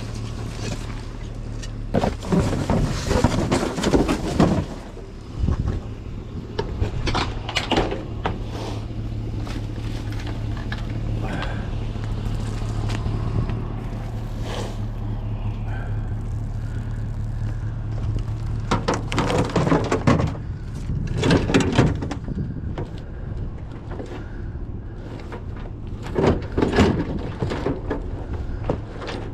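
Steady low hum of a running vehicle engine, with several short bursts of rustling and knocking handling noise.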